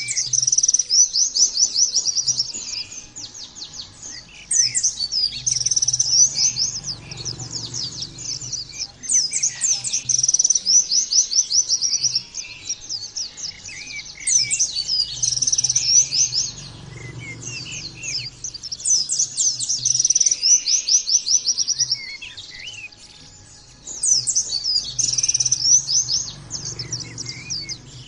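White-eye (pleci) singing in fast, high, twittering bouts of a few seconds each, separated by short pauses.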